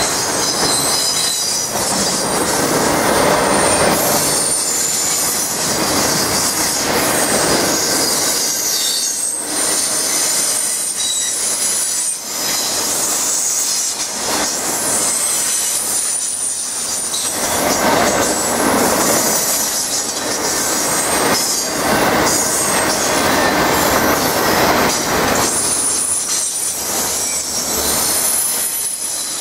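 Autorack freight cars rolling past close by: steady loud noise of steel wheels on the rails, with thin high-pitched wheel squeal coming and going over it.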